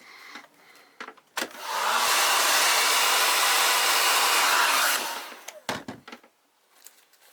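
Handheld electric hot-air blower switched on, running steadily for about three seconds and winding down, with a few handling knocks before and after.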